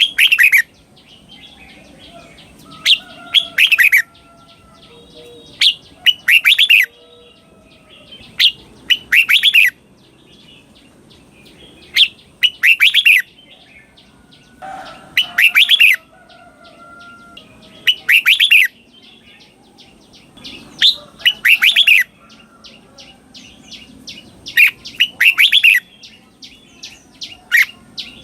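Red-whiskered bulbul singing loud, short phrases of quick falling notes, repeated about every three seconds, with soft chattering between them. This is the doubled song style that is played to caged bulbuls to teach them.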